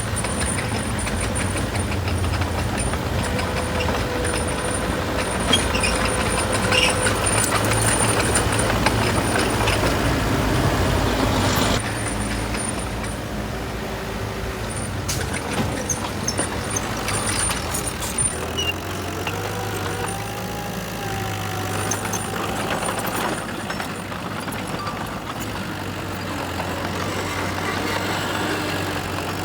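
Heavy diesel engine of a construction vehicle running, louder for the first twelve seconds or so and then dropping to a lower, steadier level, with scattered short knocks.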